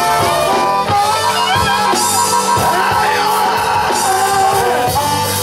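Live blues band playing between sung lines: electric guitar fills over bass and drums.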